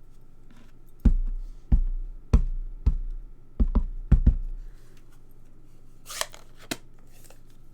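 A rubber stamp on its block knocked down repeatedly onto an ink pad and onto card stock: about seven sharp knocks in quick succession through the first half, followed by a couple of brief paper rustles.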